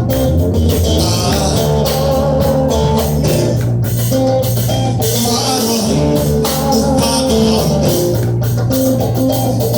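A band playing an instrumental passage, with guitar, bass and drum kit, at a steady loud level.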